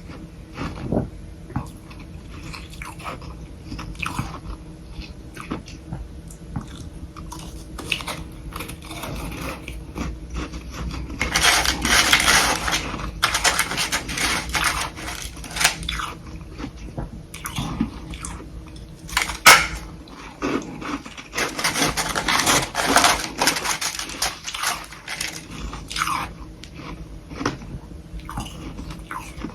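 Close-miked biting and chewing of soft humidifier frost sticks, crisp crunches of powdery freezer frost. Two stretches of dense, rapid crunching come about a third of the way in and again about two-thirds of the way in, with scattered single crunches between them.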